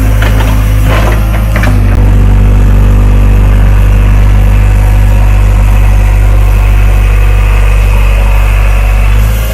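JCB 3DX backhoe loader's diesel engine running steadily at a constant speed, with a few sharp clanks in the first two seconds. The engine sound drops off a little near the end.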